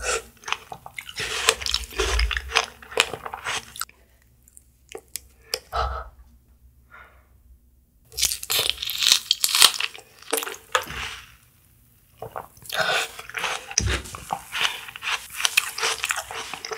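Close-miked biting and chewing of a strawberry, in three spells with short quiet pauses between them. A new bite comes about eight seconds in.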